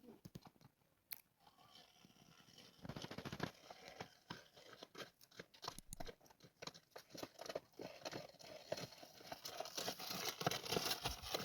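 Faint crunching and crackling: scattered small clicks and snaps, almost nothing for the first two seconds, then busier toward the end.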